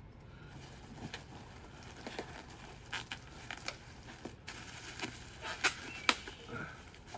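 Packaging being handled and opened: scattered small crinkles, taps and clicks, busier in the second half.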